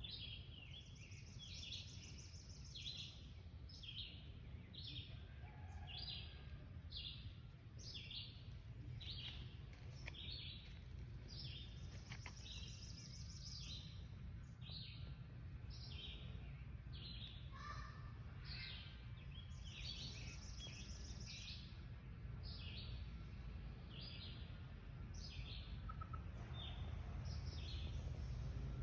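Songbirds chirping at dawn: short, quick high notes repeated about once or twice a second, over a low steady rumble.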